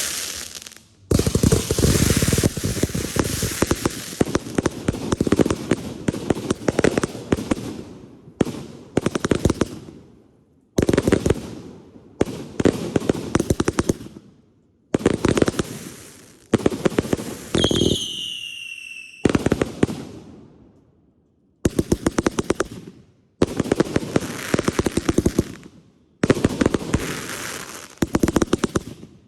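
Consumer fireworks going off in rapid runs of dense crackling reports, each run starting with a sharp bang and fading before stopping abruptly. A single descending whistle sounds about two-thirds of the way through.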